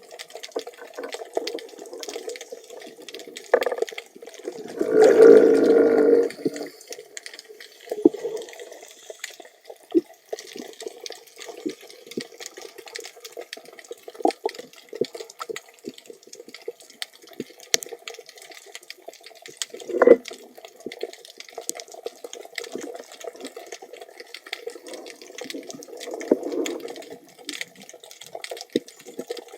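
Underwater water noise during a spearfishing dive: a steady low rush with scattered crackles and clicks, a louder rush lasting about a second and a half about five seconds in, and one sharp click about twenty seconds in.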